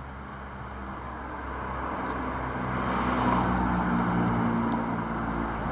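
A car driving past: tyre noise and engine hum swell to a peak about three seconds in, then ease off.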